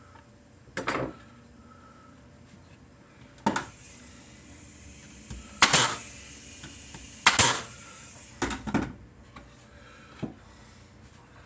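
Cedar birdhouse pieces and tools being handled on a workbench: a series of sharp knocks and clacks, the two loudest about a second and a half apart near the middle.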